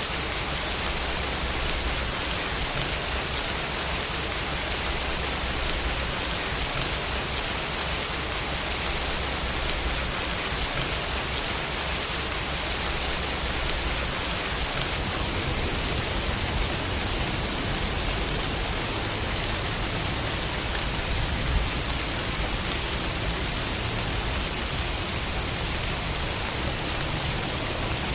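Steady rain falling, an even hiss of many drops on a surface, with one brief sharp drip or tap about twenty-one seconds in.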